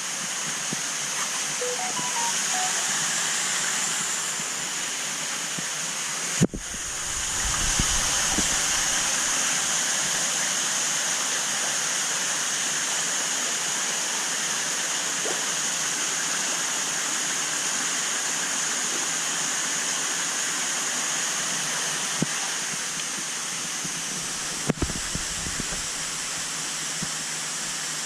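Steady rush of moving water in a large aquarium, the circulating current running across the surface. There is a sharp knock with a low thump about six seconds in, and another near the end.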